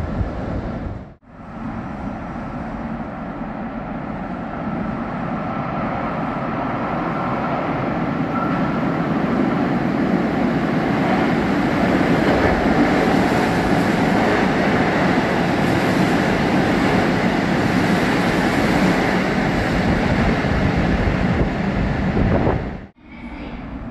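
Keisei 3000-series electric train running into an underground station. Its wheel and motor rumble grows louder over the first ten seconds, then stays loud as the cars run along the platform. The sound breaks off briefly about a second in and again near the end.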